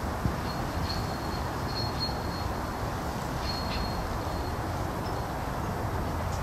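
Outdoor background noise: a steady low rumble with short, high chirps several times, like a small bird calling.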